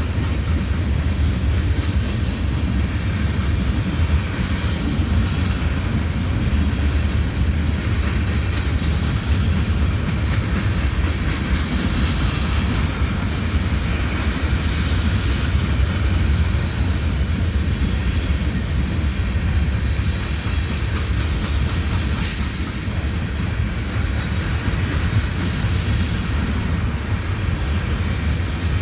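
Coal train's cars rolling past on the rails, a steady, continuous rumble of wheels on track, with a brief high hiss about three-quarters of the way through.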